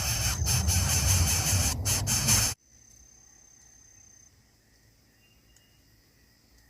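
Loud rustling and scraping noise with sharp clicks, cutting off suddenly about two and a half seconds in. After it, faint steady insect trilling.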